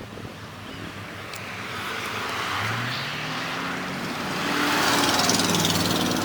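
Supercar engine accelerating towards the microphone, its note rising slightly and growing louder until about five seconds in, over a haze of road and wind noise.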